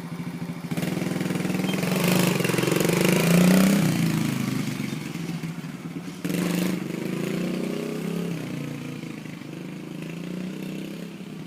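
Small dirt bike engine idling, then revving up about a second in, its pitch rising and falling with the throttle as the bike pulls away in gear. A louder burst of throttle comes about six seconds in, and the engine then gets quieter.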